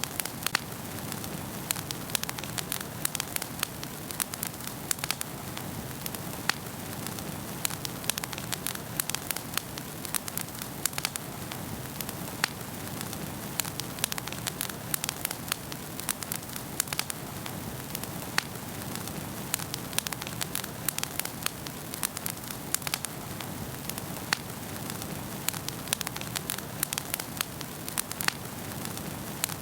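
Wood fire burning in a fireplace, crackling and popping with many irregular sharp snaps over a steady hiss of flame.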